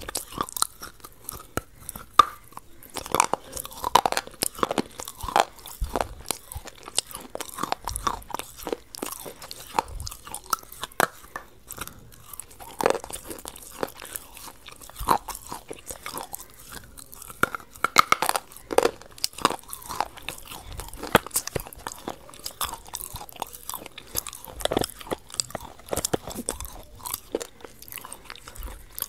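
Close-miked biting and chewing of a chocolate-coated ice cream bar: a steady run of short, crisp crunches and mouth sounds.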